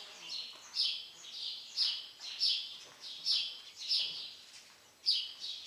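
A small bird chirping over and over, short high chirps about every half second in a steady run.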